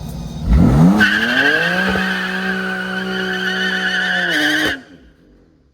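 A car engine revved hard with its tyres spinning on the pavement: the engine note climbs quickly, then holds high under a steady, high-pitched tyre squeal for about four seconds before both cut off suddenly.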